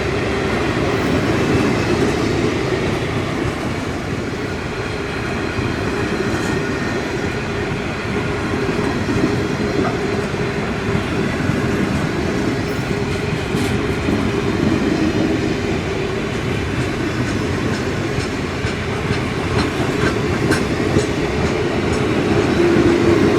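Train running along the track: a steady low rumble of wheels on rails, with scattered faint clicks.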